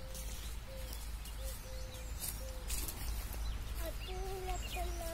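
A bird calling: a run of short notes on one even pitch, repeated about once a second, then longer two-pitched calls near the end.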